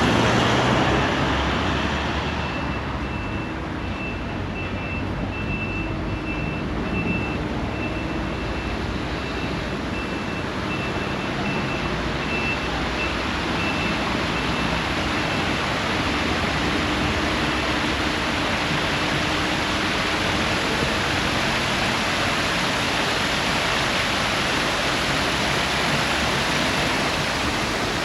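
Traffic noise: a vehicle passing right at the start, then a steady rush of road or surf noise. A faint, high, evenly repeated beep runs through the first half.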